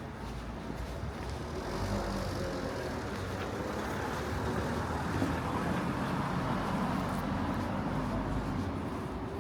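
A motor vehicle passing on a road, its engine and tyre noise swelling about two seconds in and easing off near the end.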